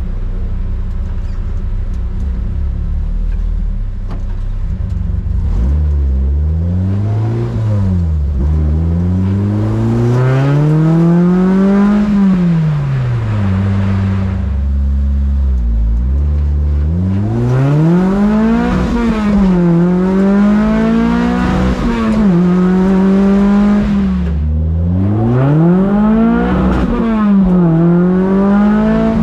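Freshly swapped Toyota 2AR-FXE 2.5-litre four-cylinder engine in a mid-engined MR2 Spyder, heard from inside the cabin. It idles steadily for the first five seconds or so, then accelerates, its pitch climbing and dropping sharply at each upshift. It eases off around the middle, then pulls up through the gears again.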